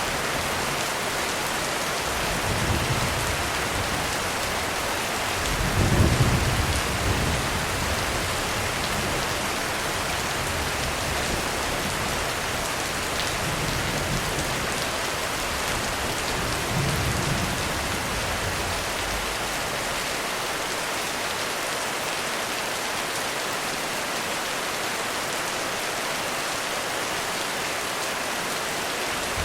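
Heavy, steady rain on a roof with thunder rumbling low several times, the strongest rumble about six seconds in and fainter ones later.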